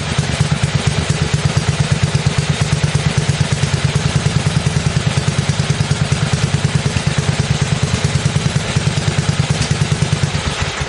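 BSA 441 single-cylinder four-stroke engine running at a steady speed through a Campbell reverse-megaphone muffler drilled with extra holes, an even rapid beat of exhaust pulses, with an exhaust leak the owner points out.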